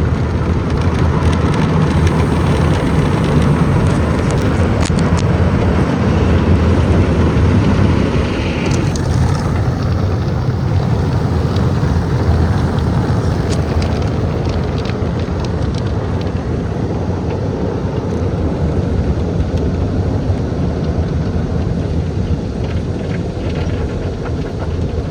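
Steady, loud rushing noise heard from inside a car.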